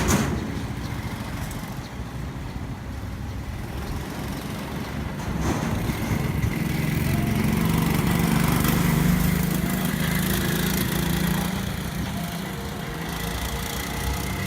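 Small petrol engine of a ride-on recreational vehicle running under way. It swells in level about halfway through, then eases off again as the throttle changes.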